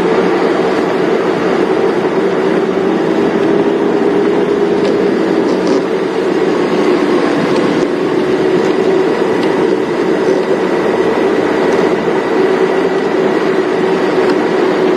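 Safari game-drive vehicle running steadily as it drives along a dirt track: an even engine drone with road noise.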